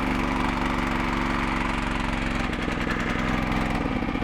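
Magnum 4000 Gold hot water pressure washer's engine running steadily just after start-up. About two and a half seconds in, a rougher hissing joins it, and near the end the steady note breaks up. This is as the pump builds pressure and the handle hose blows off its fitting.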